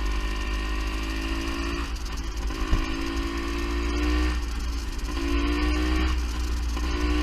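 Beta Synt trial bike's two-stroke engine running under way, its pitch climbing and dropping back about four times as the throttle is worked. The rider takes it to be running lean.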